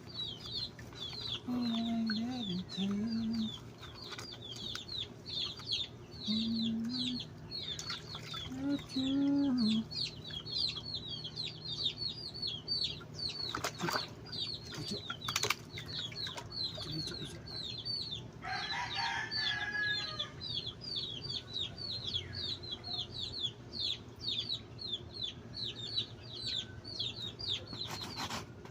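Continuous rapid high-pitched peeping from a small animal, several short falling calls a second. A few low hum-like sounds come in the first ten seconds, and there are two sharp clicks about halfway through.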